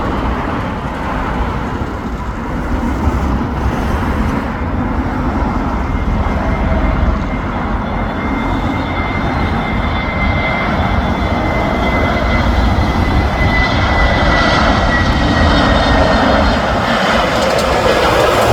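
Airbus A321neo jet airliner with CFM LEAP-1A turbofans passing on its landing approach: a steady jet rumble with a thin whine that slowly falls in pitch, growing a little louder toward the end.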